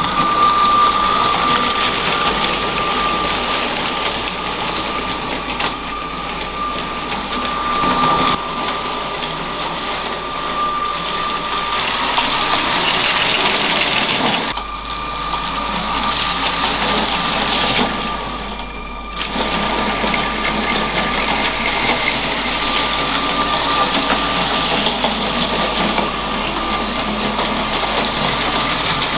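A LEGO train's small electric motor whining at a steady high pitch, with the wheels rattling over plastic track. The sound changes abruptly a few times.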